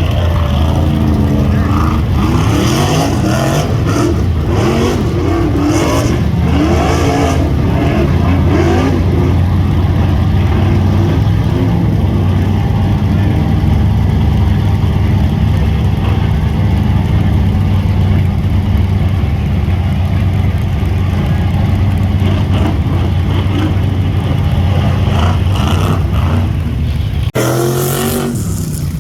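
Rock bouncer race buggy engines revving, the pitch repeatedly rising and falling over a steady low engine drone. The sound changes abruptly near the end, with more revving.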